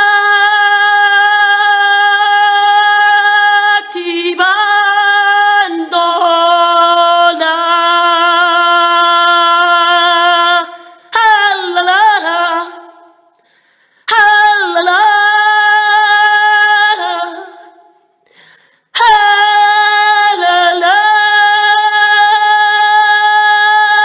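A woman's voice chanting unaccompanied, holding long sustained vowel notes for several seconds each. The pitch slides and wavers between notes, with a few short pauses for breath.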